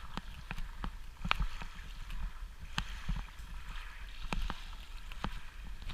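Kayak paddling: water splashing and dripping off the paddle blades as short, irregular splashes over a steady watery hiss.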